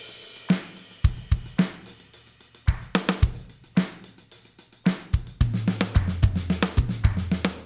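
Drum kit playing a beat with kick, snare and hi-hat hits; a low bass line joins about two-thirds of the way through, and the music stops abruptly at the end.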